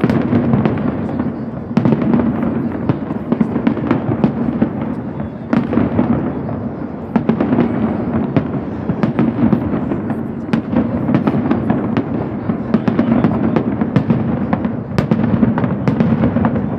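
A fireworks display going off in a rapid, continuous barrage of bangs and crackles over a steady rumble.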